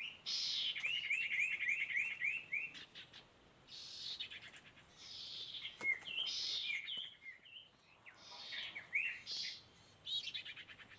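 Sirtu bird song: repeated phrases of quick, high, sweeping notes with short pauses between them.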